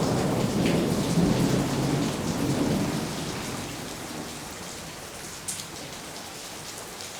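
Thunder rumbling and dying away over steady rain, the rumble fading out about halfway through and leaving the hiss of rain with scattered drips.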